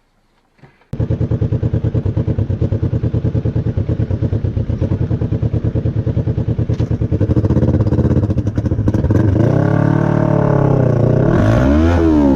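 Motorcycle engine running at speed with fast, even exhaust pulses, starting about a second in. Near the end it revs up and back down twice.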